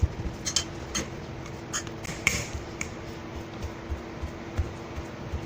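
Irregular sharp clicks and knocks of a kitchen utensil against a bowl, about one or two a second, over a faint steady hum.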